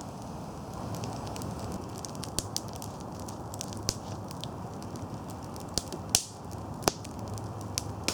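Log campfire burning well, wood crackling with scattered sharp pops over a steady low rush of flame; the loudest pops come about six and seven seconds in.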